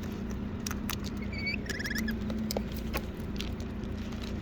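Cockatoos feeding from a bucket: scattered light clicks and taps of beaks picking at the food, with a brief faint run of high chirps a little under two seconds in.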